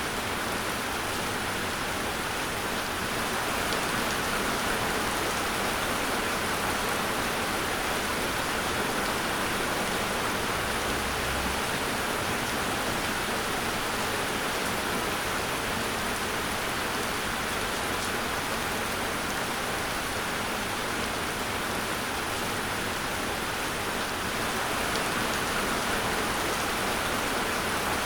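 Steady rain falling, an even dense patter without let-up.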